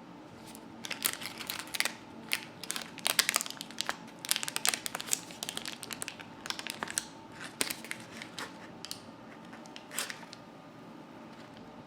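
Paper crinkling and tearing in quick, irregular crackles, like a paper muffin baking cup being peeled off a baked muffin; it stops about ten seconds in.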